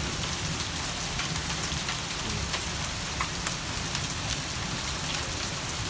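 Heavy rain pouring down steadily, with many sharp taps of individual drops striking hard surfaces.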